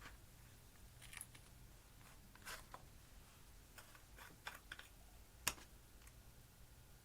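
Slime being played with, giving faint, irregular clicks and crackles, the loudest a single sharp click about five and a half seconds in.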